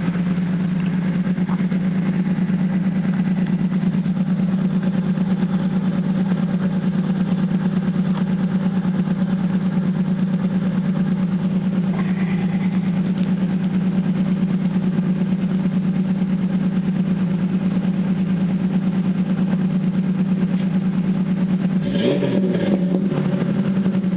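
Supercharged Ford Ranger 4.0 V6 running through an exhaust with Flowmaster 44 mufflers, Magnaflow catalytic converters and an X-pipe, holding a steady pitch. Near the end the note briefly changes pitch.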